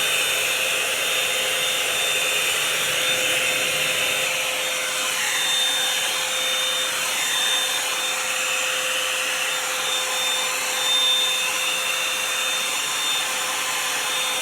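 Revlon One-Step Hair Dryer & Volumizer (a hot-air round brush) running steadily: a rush of blown air with a steady high whine from its motor.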